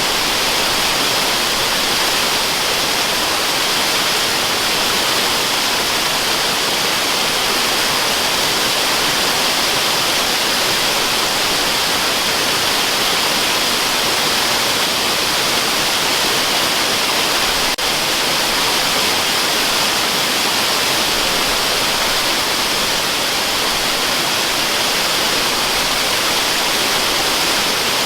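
Waterfall: a steady, even rush of falling water, strongest in the hiss, with a single faint click about two-thirds of the way through.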